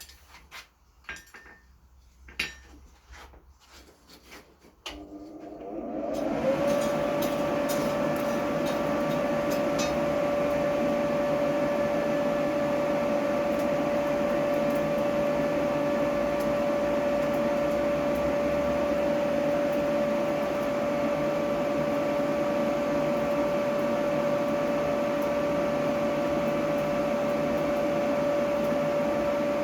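A few light clicks and knocks of metal being handled, then about five seconds in an electric forge blower starts, whining up to speed within a second and running with a steady hum.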